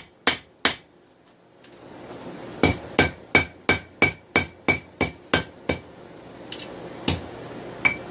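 Hand hammer striking hot 416 stainless steel on an anvil to thin out a knife blade. Three blows, a pause of about two seconds, then a run of about ten blows at roughly three a second with a ringing note, then a few slower blows near the end.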